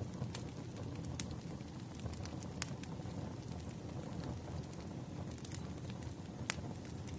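Burning firewood crackling: a steady low rumble of flames with sharp pops now and then, the loudest about a second in, near the middle and near the end.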